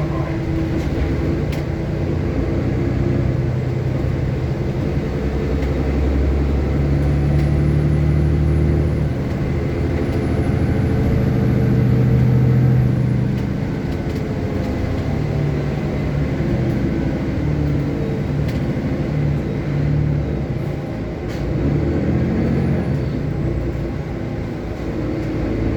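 City bus engine and road noise heard from inside the moving bus: a steady low engine hum that grows louder over the first half, eases off about halfway through, and swells again near the end.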